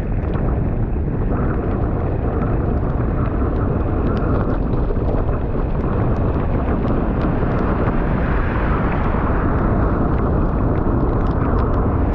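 Steady wind rumble on the microphone of a bicycle riding fast in pouring rain, with the hiss of tyres on a wet road and scattered sharp ticks of raindrops.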